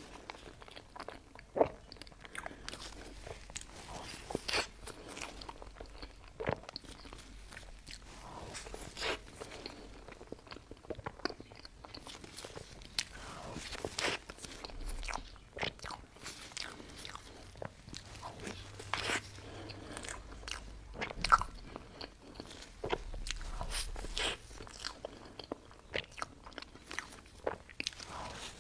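Close-miked eating sounds: a person biting and chewing mocha cake desserts, with irregular mouth clicks throughout.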